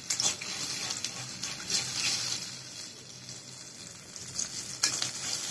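Onion and ginger-garlic spice paste frying in oil with a little water in a metal wok, a steady bubbling sizzle. A couple of brief clicks right at the start and another shortly before the end.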